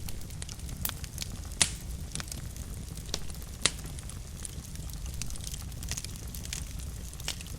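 Wood fire burning in a fireplace: a steady low rumble of flames with irregular sharp crackles and pops, two of them louder, at about one and a half and three and a half seconds in.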